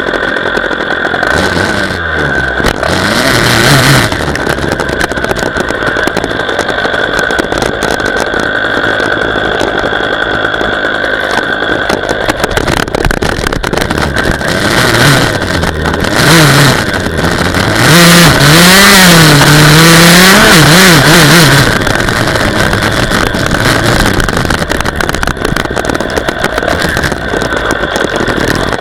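Dirt bike engine running, its revs rising and falling again and again. The loudest run of revving comes about two thirds of the way through.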